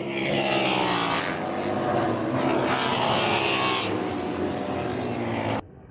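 Superbike race motorcycles on warm-up laps, engines at high revs passing by in two loud surges, their pitch falling as they go; the sound cuts off abruptly near the end.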